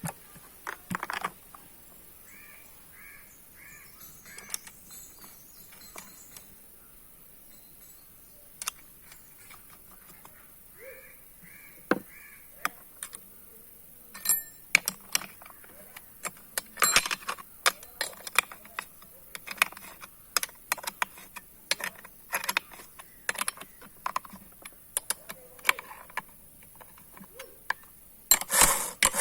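Scattered metallic clicks and clinks of a chainsaw's bar, chain and tools being handled, sparse at first and coming thick and fast in the second half. A bird calls twice in short runs of four.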